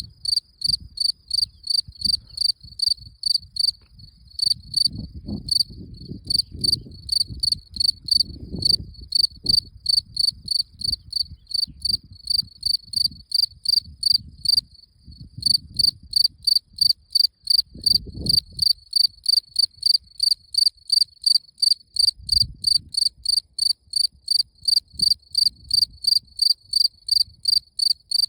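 Cricket chirping in a steady rhythm, about two to three chirps a second, with a brief pause about halfway through.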